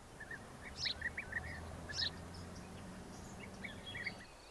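Small songbirds chirping in short, scattered calls over a faint, steady low hum.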